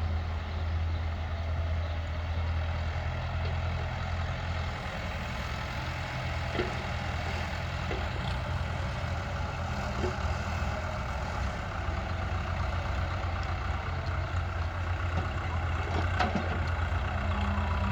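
Tractor engine running steadily: a low, even engine hum, with a few faint clicks scattered through it.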